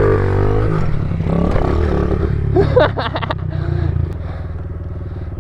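50cc pit bike engine revving, its pitch rising and falling in the first second, then running at a steadier, lower level from about four seconds in.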